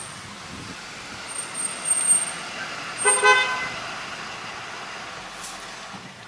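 A short, horn-like toot about three seconds in, over steady background noise.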